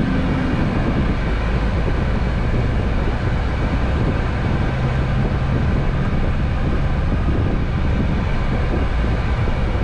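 Scania Next Generation truck driving along, its diesel engine droning steadily under road and tyre noise heard from inside the cab.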